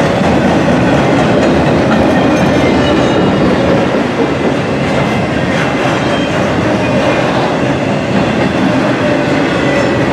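Container well cars of an intermodal freight train rolling past: a steady, loud rumble of steel wheels on rail, with rhythmic clicking and faint high squeals from the wheels.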